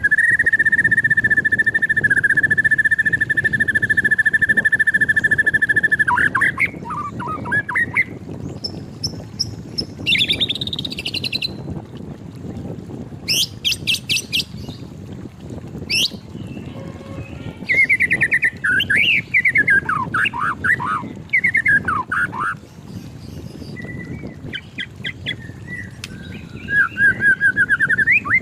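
White-rumped shama singing: one long steady whistled note for about six seconds, then varied phrases of quick trills and rising and falling whistles broken by short pauses.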